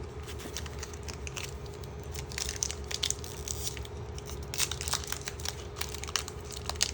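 Foil Pokémon booster pack wrapper being crinkled and torn open by hand, a run of irregular crackles that grows busier about two seconds in.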